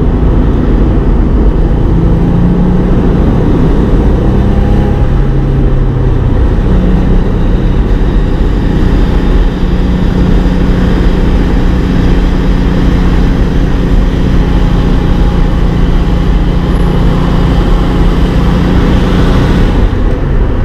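Porsche 911 Turbo's 3.8-litre turbocharged flat-six running steadily while the convertible drives on the road, heard with heavy wind and road rumble. The engine note steps up slightly about six seconds in, then holds steady.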